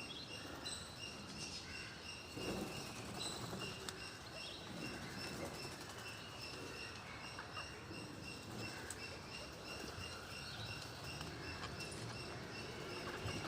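Parrots chirping and flapping their wings as they feed, over a steady high chirp repeating about three times a second.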